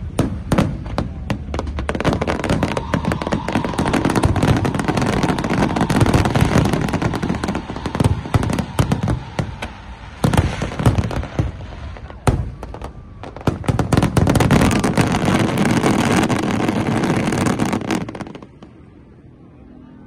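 Fireworks display, with shells bursting overhead in rapid, overlapping bangs and crackling. The barrage cuts off suddenly about eighteen seconds in.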